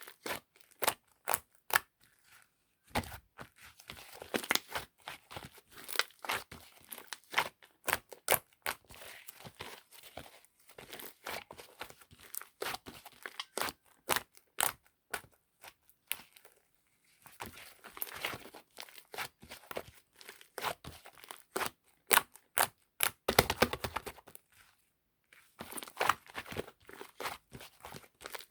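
Clay slime being squished and pulled by hand: a quick, irregular run of sticky clicks and crackles, with a longer tearing stretch about three seconds in and again near twenty-three seconds.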